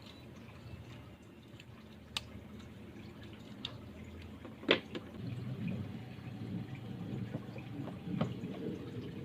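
A few isolated sharp knocks or clicks, the loudest about halfway through, over a low background rumble that grows louder in the second half.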